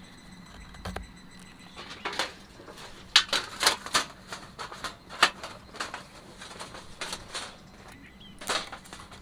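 Firewood snapping and crackling: a dozen or so sharp, irregular clicks, the loudest about three seconds in.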